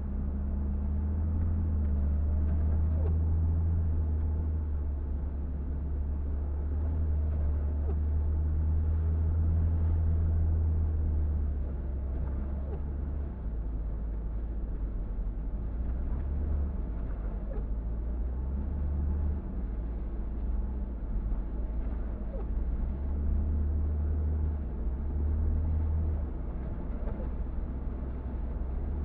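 Car driving: a steady low engine and road rumble that shifts in pitch and level a few times along the way.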